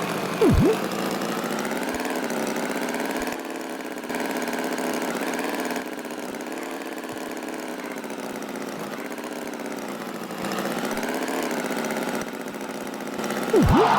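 Animated tractor's engine sound effect, running steadily with a wavering pitch. Twice, about half a second in and again near the end, a brief loud swoop drops and rises in pitch over it.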